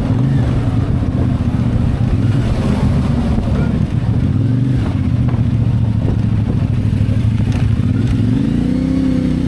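CFMoto 450MT's parallel-twin engine running at a steady pace under way. Its note rises near the end as the bike accelerates.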